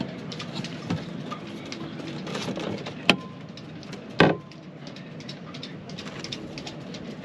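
Scattered knocks and clicks of wooden pieces being handled and fitted, the loudest about four seconds in, over steady background noise.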